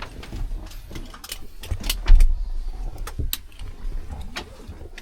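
Irregular sharp clicks and knocks over a patchy low rumble.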